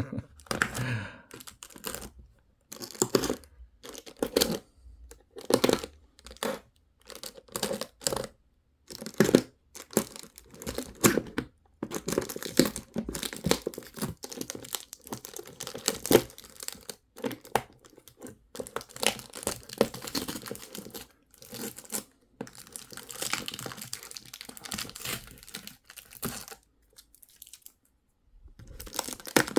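Sticky tape being peeled and ripped off a toy's packaging, with the packaging crinkling, in many short irregular tears and brief pauses.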